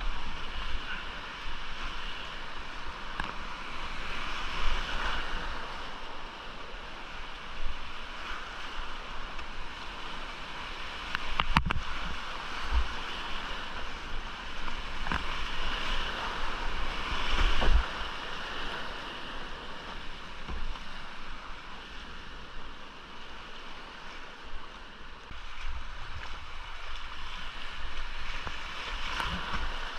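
Whitewater creek rushing and splashing, surging louder and softer every few seconds, with low rumbling buffets on the microphone and one sharp knock near the middle.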